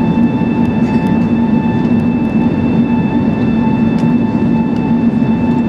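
Steady cabin drone inside an Airbus A380's lower-deck economy cabin: engine and airflow noise with constant humming tones over an even rush.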